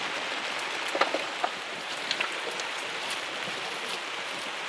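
Heavy rain falling steadily, with a few sharper drip or tap sounds standing out about one and two seconds in.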